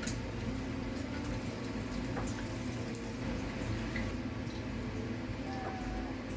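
Sunny-side-up egg frying in hot oil in a wok: a steady sizzle with scattered small pops and crackles.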